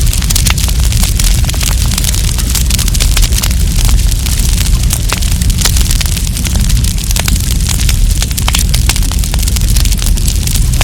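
Wood campfire crackling, with many quick sharp pops and snaps over a steady low rumble of the burning fire.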